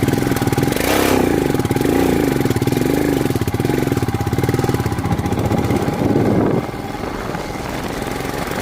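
Motorcycle engine running under way, its revs rising and falling several times, then easing off about two-thirds of the way through. A short hiss comes in about a second in.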